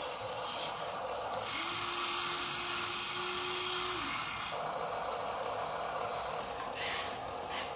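Small electric motors and plastic gearboxes of toy RC dump trucks whirring, louder and higher for a stretch of about three seconds near the start, then easing back.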